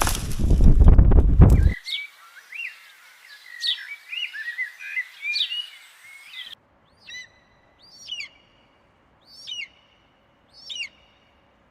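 A loud rushing noise for the first two seconds stops abruptly. Birds then sing with quick chirps and rising and falling whistles. After another sudden change, one bird gives four short falling whistled calls about a second apart.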